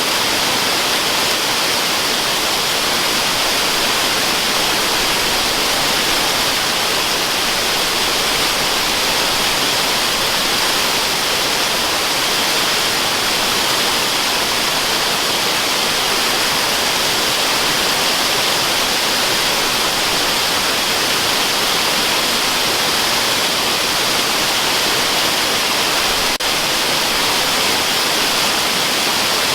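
A waterfall rushing: a steady, unbroken hiss weighted toward the high end.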